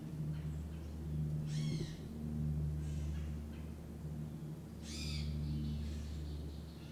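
A bird gives two short, harsh calls, one about a second and a half in and another about five seconds in, over a steady low rumble.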